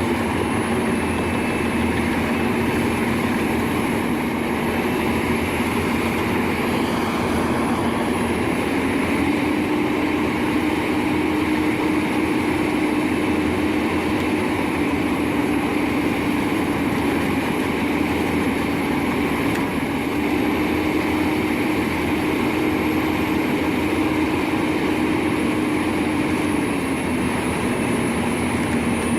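Albach Diamant 2000 wood chipper running, a continuous machine drone. Its engine note steps up about nine seconds in and falls back near the end.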